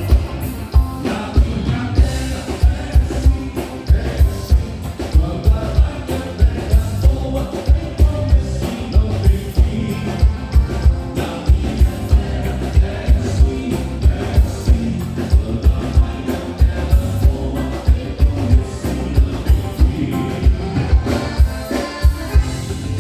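Live band playing gaúcho dance music, loud, with a steady, heavy bass beat of about two hits a second.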